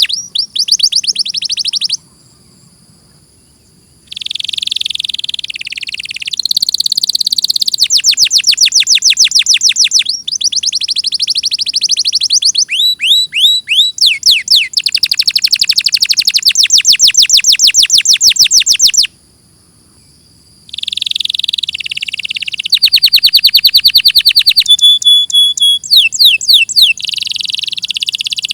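Domestic canary singing long, fast trills of rapidly repeated notes, buzzy rolls and sweeping whistles, breaking off twice for about two seconds.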